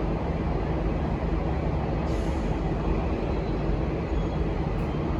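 V/Line N class diesel-electric locomotive running with a steady low diesel rumble, with a brief hiss about two seconds in.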